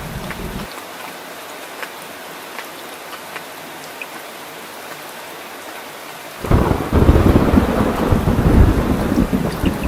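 Steady rain falling, with scattered sharp drips. A low rumble of thunder stops under a second in, and about six and a half seconds in loud thunder rolls in suddenly and keeps rumbling.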